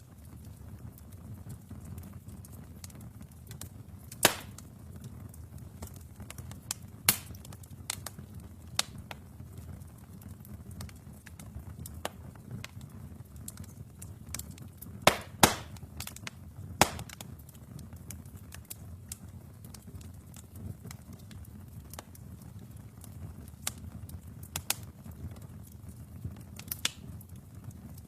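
Wood fire burning in a fireplace: a low steady rumble of flames with sharp crackles and pops at irregular moments, the loudest a cluster of pops about fifteen to seventeen seconds in.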